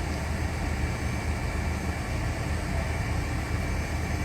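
Steady low rumble of idling heavy vehicles and street traffic, with a thin steady whine above it.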